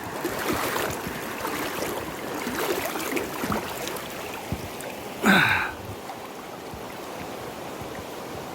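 Rain-swollen river water rushing and splashing steadily. About five seconds in, a short, loud grunt or exclamation with falling pitch from the person wading in it.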